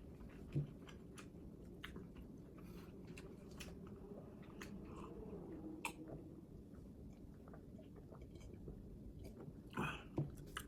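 A person chewing food quietly, with scattered small clicks and a few slightly louder short mouth sounds.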